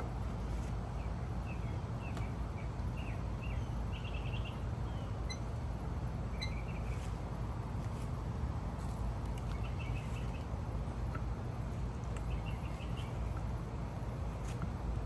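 Small birds chirping faintly now and then over a steady low background rumble, with a few faint ticks.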